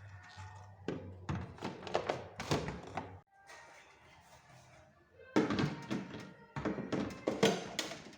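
Irregular thunks and knocks of hard objects being handled and set down, loudest in a cluster in the second half, over quiet background music.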